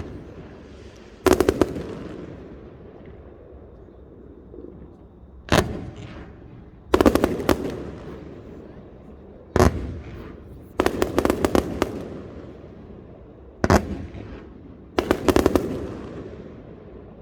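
Aerial fireworks display: shell bursts going off every second or two, some as single bangs and some as quick strings of reports, each followed by an echoing tail that dies away.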